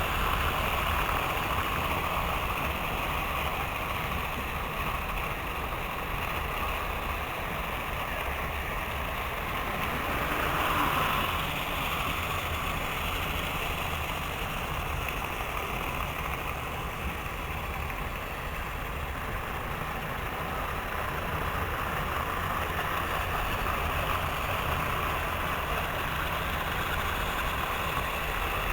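Several model trains running at once on their track: a steady running whir, swelling briefly about ten seconds in.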